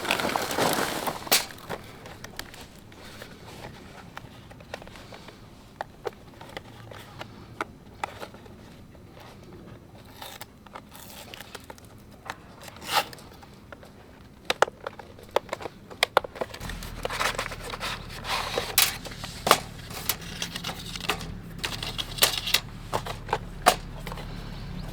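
Scattered clicks, scrapes and crinkling rustles of objects being handled. About two-thirds of the way through, a low steady hum starts and carries on underneath.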